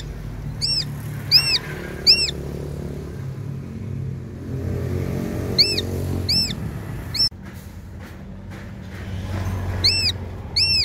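A bird repeating short, arched calls in runs of about three, over a steady low rumble.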